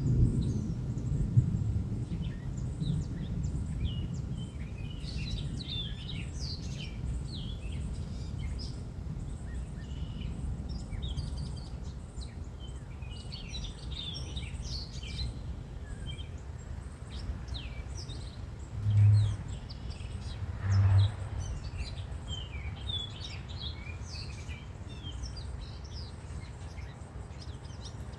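Many small songbirds chirping and calling in quick, scattered notes over a steady low outdoor rumble. Two short, low hums, the loudest sounds, come about two seconds apart past the middle.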